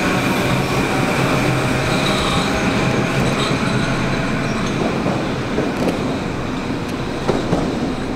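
Four-car Kawasaki M8 electric multiple-unit train pulling away and running off down the track, with a steady high whine and slowly fading rumble. A few sharp clacks from the wheels come in the second half.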